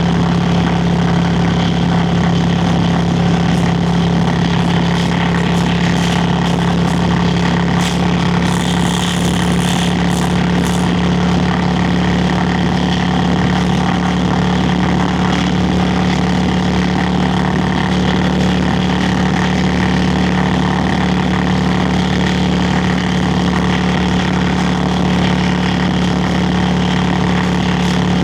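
Yamaha Virago XV535 V-twin engine and exhaust running at a steady, unchanging pitch.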